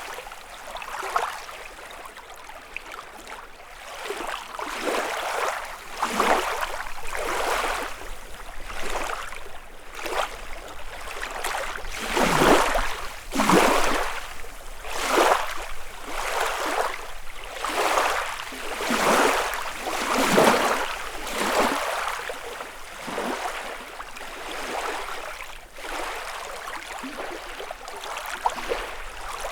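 Small waves lapping against a lakeshore, one splash about every second or so, louder through the middle stretch and softer at the start and end.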